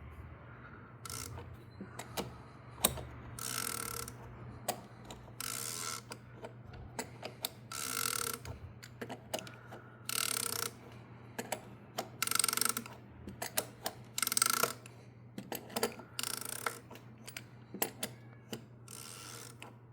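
Ratchet wrench being worked in short rasping strokes, about one every two seconds, with small metal clicks and knocks between, as the engine's oil drain plug is run in and tightened.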